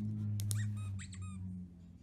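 About five short, high-pitched squeaks that bend in pitch, over a steady low hum.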